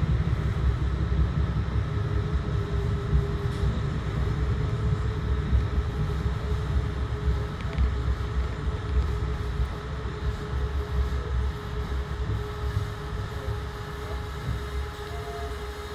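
Rumble of a Bombardier BTC-1B commuter rail coach heard from inside as it rolls along the track, with a steady faint hum over the low noise. The rumble dies down gradually as the train slows toward a station stop.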